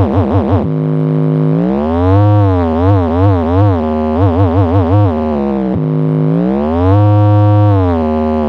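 Blizzard Audio horeg sound system playing an electronic tone that slides up and down in pitch, wobbling fast in places over deep bass that pulses in step, rising to a held high note near the end and then falling.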